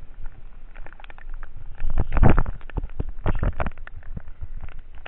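Raindrops tapping on the camera as irregular sharp clicks, with two louder low rumbles about two and three and a half seconds in.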